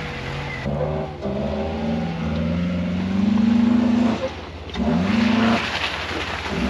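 Honda CR-V's engine revving hard under acceleration, its pitch climbing in steps. It drops off briefly about four and a half seconds in, then climbs again.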